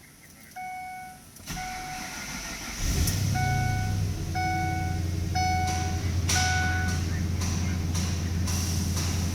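A 2006 Ford F250's 5.4L Triton V8 is cranked and catches about three seconds in, then settles into a steady idle. A dashboard warning chime beeps several times over the first seven seconds.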